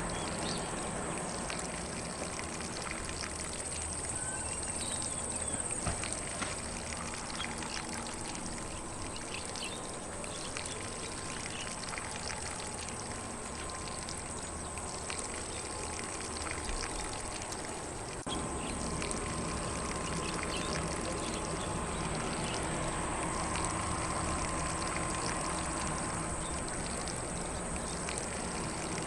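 Lawn sprinkler spraying water onto grass: a steady hiss and patter of water, with faint bird chirps in the background.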